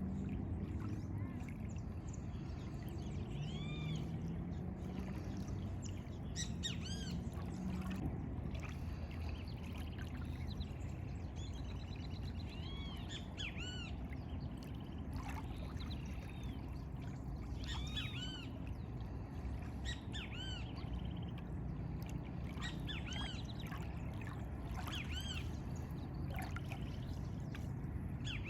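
Small birds chirping again and again in short, arched high notes, over a steady low rush of lagoon water.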